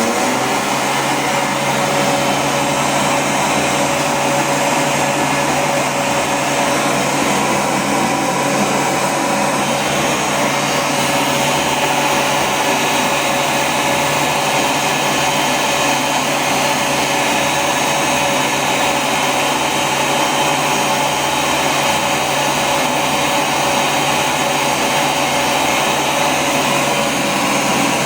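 Vintage 1979 World Dryer A1 hand dryer switching on and running steadily, a loud even rush of blown air over a steady motor hum.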